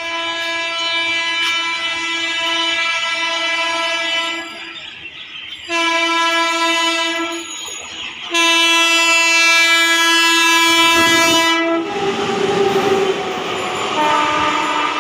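Electric locomotive's horn sounding three blasts: a long one that stops about four seconds in, a short one, then a loud long one. After that comes the noise of a passing train with a fainter, lower horn tone under it.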